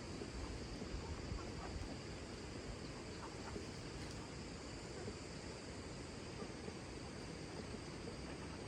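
Outdoor ambience with a steady, high-pitched insect drone and a few faint ticks.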